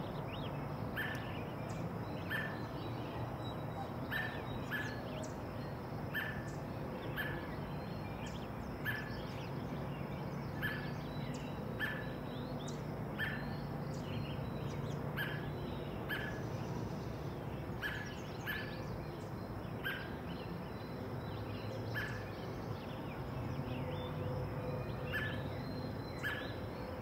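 Evening outdoor ambience: a bird repeats a short, high chirp about once a second over a steady low background hum.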